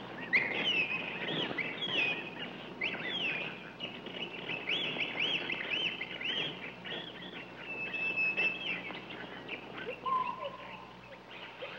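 Birds calling in a rapid run of short chirps that each rise and fall in pitch, with a lower, steadier whistle near the end.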